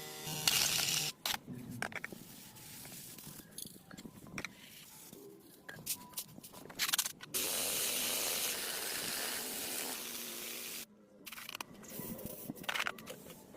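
Workshop handling sounds of scattered clicks and scrapes, with a steady spraying hiss of about three seconds that begins a little past halfway and cuts off suddenly.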